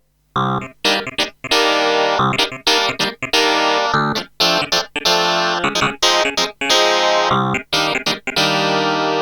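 Kurzweil K2500R synthesizer playing a factory preset with an electric-piano-like keyboard sound, dry with no effects. It plays a run of short, separately struck chords with quick gaps between them, starting just after a brief silence.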